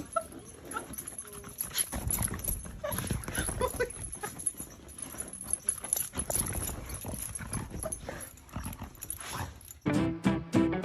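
Irregular tapping and knocking with a few short, faint squeaks from a dog moving about. Strummed guitar music comes in near the end.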